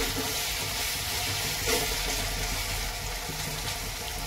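Chopped tomatoes and onions frying in oil in a kadai on a low flame: a steady, soft sizzle, with a slotted metal spatula scraping the pan about two seconds in.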